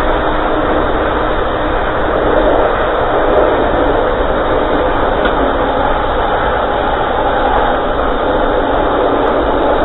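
Passenger train running along the track, heard from its rear end: a steady rush of wind and rolling wheel noise on the rails.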